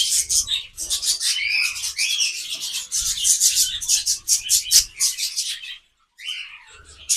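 A flock of budgerigars chattering: fast, scratchy warbling mixed with short chirps, breaking off briefly near the end and then starting again.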